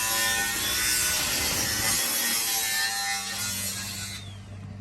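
Power saw cutting wood: a loud whine and the rasp of the cut, stopping about four seconds in. A steady low hum runs underneath.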